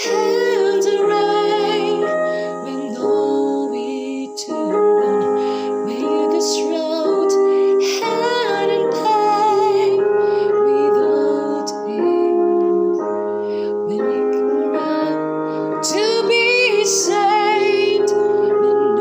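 A song: a woman singing with vibrato over piano accompaniment.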